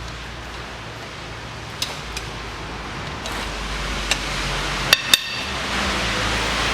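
Metal tools clinking on cylinder-head bolts as they are loosened: a few sharp clinks, two close together about five seconds in that ring briefly, over a steady low hum.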